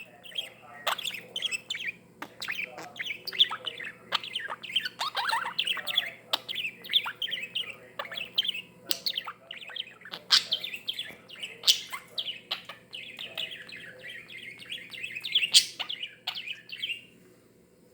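Budgerigar warbling and chattering in a quick, continuous run of chirps, with sharp ticks of its beak against a glass mixed in. It stops shortly before the end.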